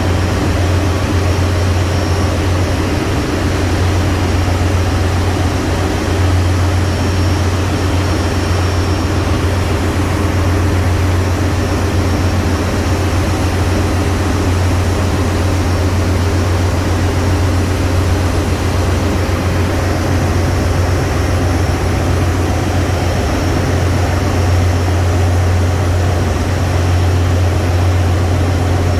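Loud, steady low drone of heavy ship's machinery, with an even rushing noise over it and no change from start to end.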